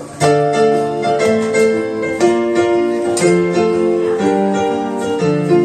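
Instrumental break of a song played on a piano-sounding keyboard: held chords, a new one struck about once a second, with no voice.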